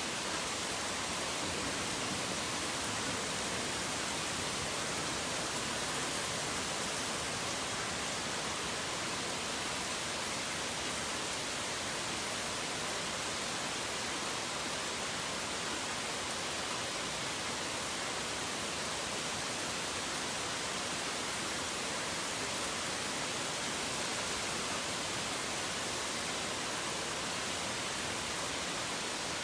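Steady rain, an even hiss with no change in strength and no thunder or birds.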